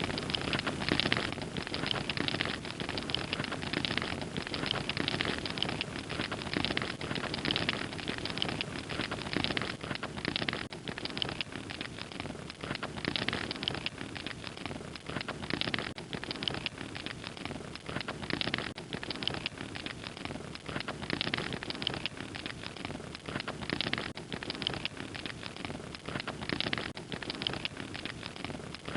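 Wood fire crackling steadily, with a dense run of small snaps and pops over a soft hiss.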